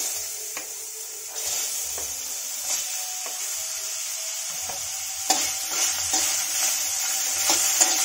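Chopped plums sizzling in a hot kadai with a steady hiss as they go into the pan, with scattered knocks of pieces landing and a spoon stirring them against the pan, the knocks coming more often in the second half.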